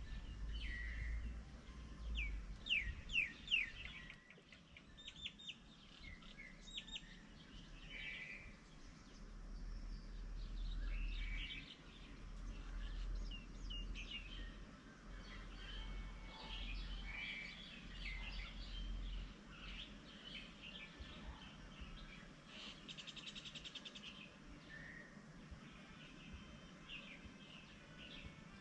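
Several birds calling, with many short, sharp chirps and whistles overlapping one another and a fast trill near the end. A low rumble comes and goes underneath.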